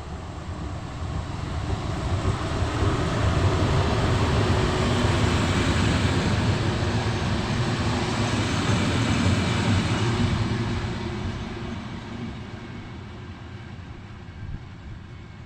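A train passing by: a rumbling run of rail noise that builds over a few seconds, holds loud for several seconds, then fades away as it recedes.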